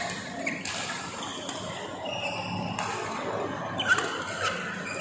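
Badminton doubles rally: rackets strike the shuttlecock several times with sharp hits, the loudest a little before the end, and shoes squeak briefly on the court floor.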